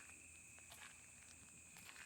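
Night insects chirring steadily at two high pitches, faint, with the walker's footsteps landing about once a second.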